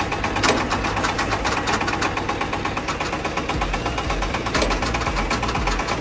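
Farm machine running with a rapid, even mechanical clatter from its gearbox: the abnormal gearbox noise that is the machine's main fault.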